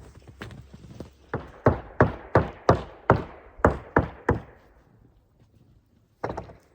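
A quick run of about ten sharp knocks, about three a second, then one more knock near the end.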